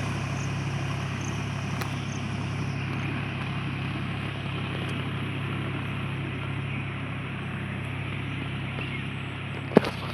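Mahindra 275 DI tractor's diesel engine running steadily. A sharp knock sounds near the end.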